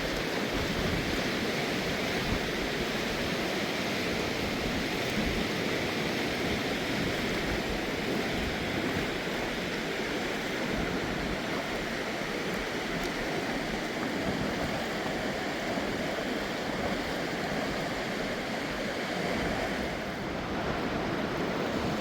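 Fast-flowing mountain river rushing steadily, a continuous even wash of water.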